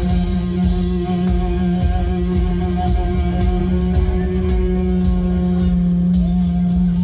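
Live rock band playing an instrumental passage: electric guitar over a held bass note, with drums. Light, even cymbal taps come in about two seconds in.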